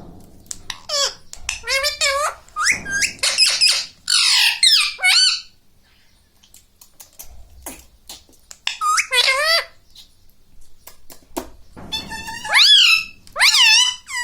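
Ringneck parrot calling in short, shrill squawks that bend up and down in pitch: a quick flurry at the start, a lull with scattered light clicks, then more squawks near the end.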